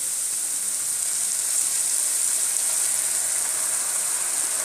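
Grated carrots frying in ghee in a pan, giving a steady sizzling hiss.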